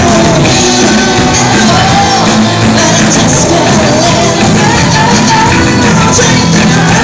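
Rock and roll band playing live and loud, with a voice singing or shouting over the band.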